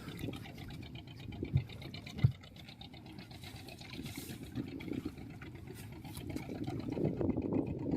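Fishing boat's engine running with a fast, steady chugging beat; two sharp knocks sound about one and a half and two seconds in.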